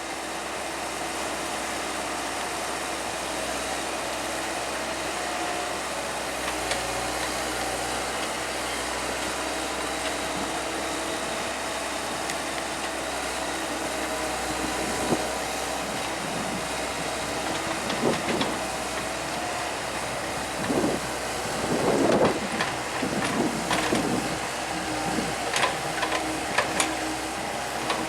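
Komatsu hydraulic excavator's diesel engine running steadily. About halfway through, irregular knocks and scrapes begin, from the bucket working rock and earth, and they are heaviest a little past the middle.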